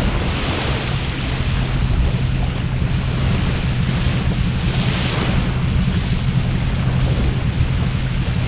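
Wood bonfire burning with a steady rushing of flames over a low rumble, swelling briefly about half a second and five seconds in, with a steady high-pitched tone throughout.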